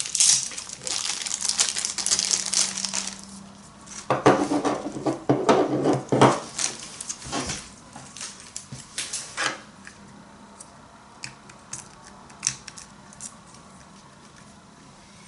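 Packaging being unwrapped and handled: crinkling for about three seconds, then a louder spell of clattering, then scattered light clicks and taps that thin out toward the end.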